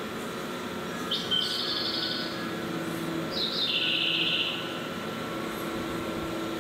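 A bird calling twice, each call a short high note that drops into a lower trilled note about a second long.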